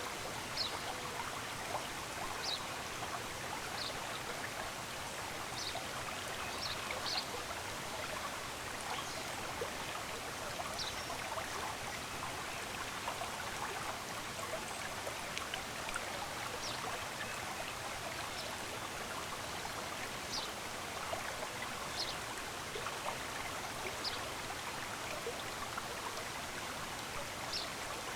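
Steady rushing of a running stream, with short high bird chirps repeating every second or two over it.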